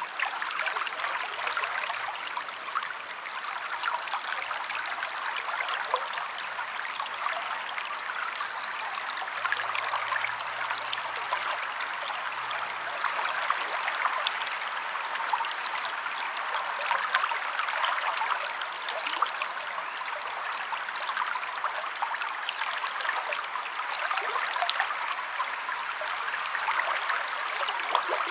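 Stream water flowing and splashing over rocks, a steady rushing with constant small splashes.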